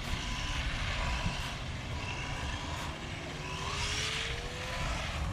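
Radio-controlled car driving, its electric motor whine climbing slowly in pitch over the last couple of seconds, over a steady hiss and low rumble.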